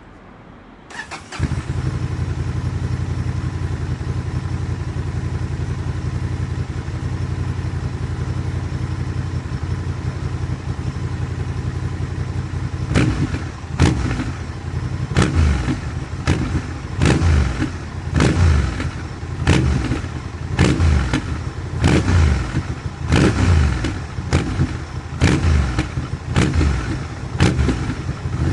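Honda Transalp XL750's parallel-twin running through an HP Corse SP1 titanium high-mount exhaust with its dB killer fitted: it catches about a second in and settles into a steady idle, then from about halfway it is revved in a long series of quick throttle blips, roughly one or two a second.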